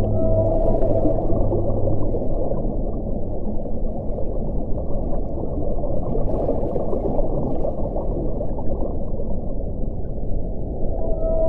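Wind blowing steadily, a deep, muffled rush, with faint howling tones near the start and again near the end.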